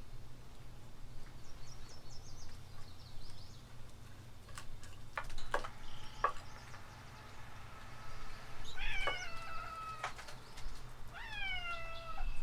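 A cat meowing twice, two drawn-out calls that fall in pitch, in the second half. A few sharp knocks come a little before the middle.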